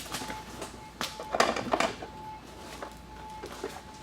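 Handling noises during work on a truck door: a sharp click about a second in, then a few short scuffs, over a faint steady tone.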